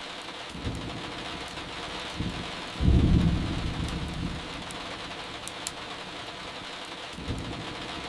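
Steady rain with rolling thunder: a low rumble builds about half a second in, the loudest peal comes about three seconds in and fades over a second or two, and another rumble starts near the end. A few sharp crackles of burning firewood sound over the rain.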